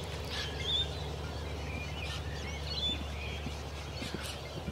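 Birds chirping in short twittering calls over a steady low outdoor rumble.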